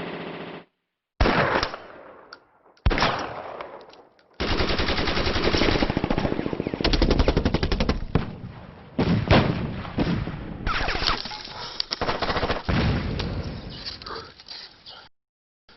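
Automatic gunfire: a couple of loud single cracks, then about ten seconds of rapid rattling bursts that stop and restart, ending abruptly.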